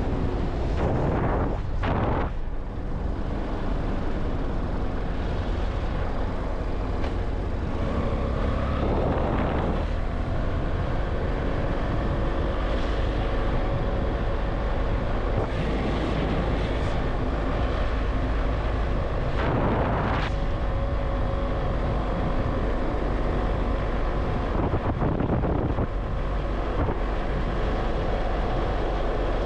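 Steady vehicle engine and road noise while travelling along a road, a constant low rumble with a few brief louder whooshes about 2, 9 and 20 seconds in.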